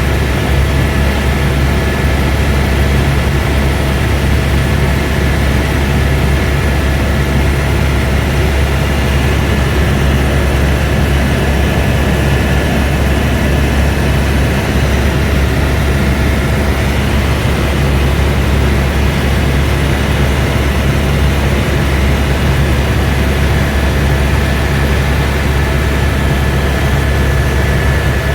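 Airbus (Eurocopter) AS350 B2 helicopter in flight, heard from inside the cabin: steady, loud rotor and turbine noise with a deep rumble and a constant high whine.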